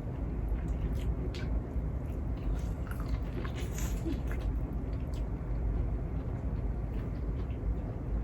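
Close-up mouth sounds of someone eating seafood: chewing and biting, with scattered wet clicks and smacks. A steady low hum runs underneath.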